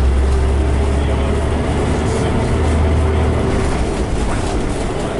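A Scania OmniCity bus's diesel engine running steadily, a heavy low drone heard from inside the bus, with body and fittings rattling over it.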